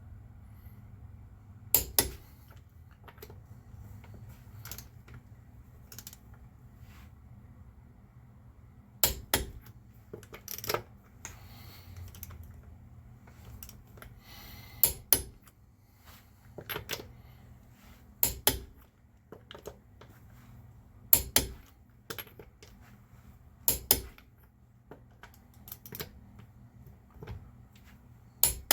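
Sharp metallic clicks and clinks of hand tools and parts being handled during the strut job, coming irregularly every second or few, often as quick double knocks, over a steady low hum.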